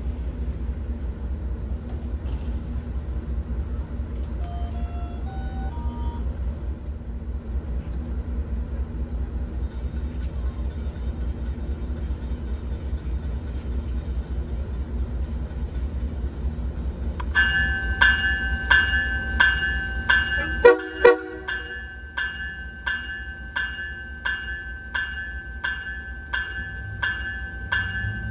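MBTA commuter rail train standing at the platform, its diesel locomotive giving a steady low rumble. About two-thirds of the way in, the train's bell starts ringing steadily at roughly one and a half strokes a second. A few seconds later come two short horn toots, the signal that the train is about to move off.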